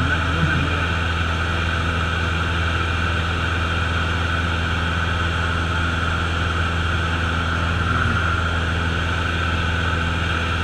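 Single-engine Cessna's piston engine and propeller running steadily, an unbroken drone with hiss, heard from inside the cockpit. A brief bit of voice shows in the first second.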